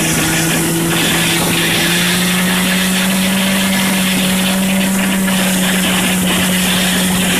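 Engine running steadily at speed, its pitch rising slightly about two seconds in and then holding, with a rush of wind or water noise.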